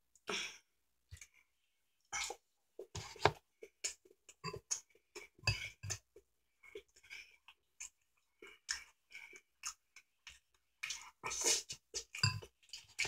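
A person chewing food close to the microphone: irregular wet mouth smacks and clicks while eating chicken strips and creamy noodles.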